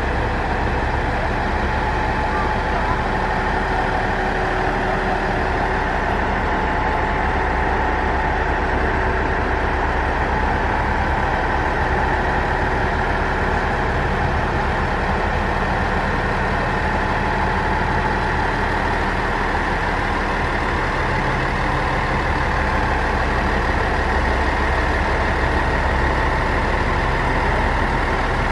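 Diesel railcar engine idling steadily.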